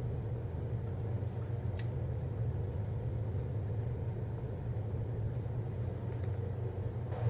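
Shear-sharpening machine's electric motor running steadily with a low hum, with two brief faint ticks, about two seconds in and again about six seconds in.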